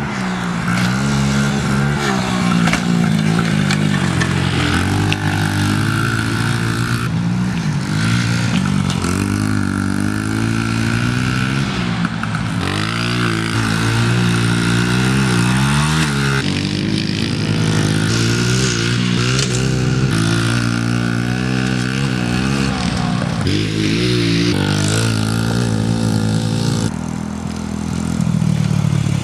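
Small four-stroke pit bike engine, a Honda CRF50, revving up and falling back over and over as it is ridden hard around a dirt track.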